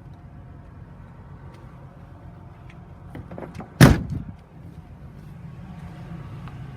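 A truck cab door slammed shut once, about four seconds in, with a few lighter knocks just before it. A steady low rumble runs underneath.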